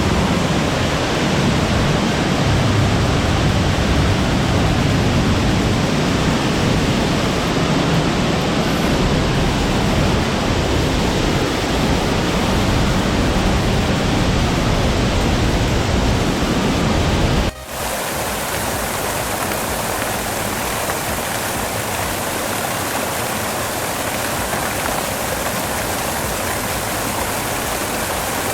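Waterfall: a steady, loud rush of falling water. About 17 seconds in it cuts abruptly to a slightly quieter, hissier rush with less low rumble.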